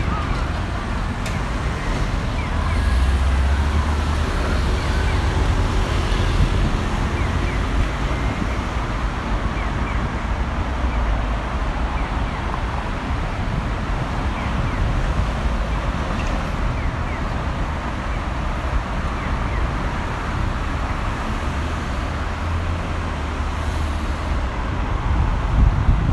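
City street ambience: steady traffic noise with a low rumble that swells as vehicles pass, about 3 seconds in and again near the end.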